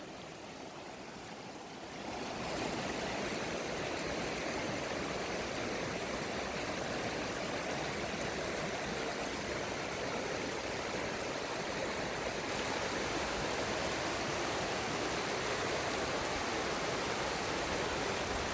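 Steady rushing of a creek's flowing water, which gets louder about two seconds in and then holds even.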